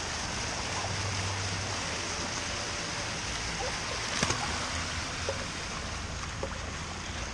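Steady hiss of running, splashing water in a kiddie pool, with one sharp knock about four seconds in.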